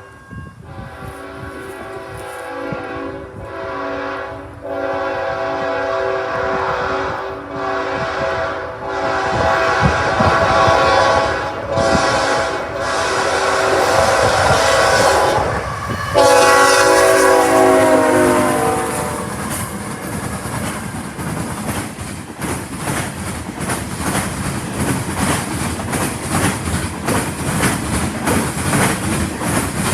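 A passing train's locomotive horn sounds in a series of blasts, ending in a long blast that falls in pitch as it goes by. The cars then roll past with a rapid, steady clickety-clack of wheels over the rail joints.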